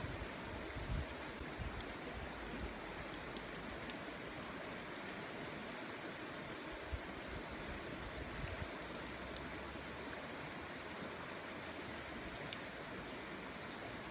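Steady rushing of river water, with gusts of wind buffeting the microphone in the first few seconds and a few faint sharp ticks.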